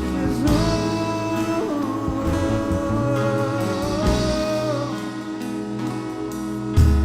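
Slow worship music with guitar and a voice holding one long sung note through most of the first five seconds.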